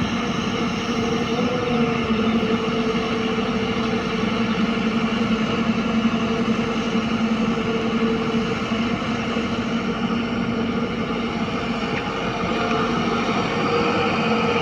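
Heavy diesel engine running steadily at an even speed, a constant pitched drone.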